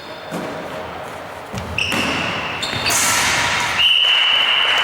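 Tchoukball ball play in a sports hall, with the ball thudding and bouncing. A long, steady, high-pitched whistle sounds twice: once briefly before halfway, then again from about four seconds in, over rising hall noise.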